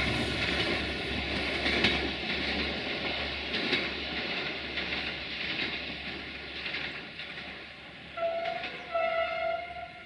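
Passenger train running away over the rails, its rumble and wheel clicks fading as it recedes. Near the end the train's horn sounds twice in short blasts from the far end of the train.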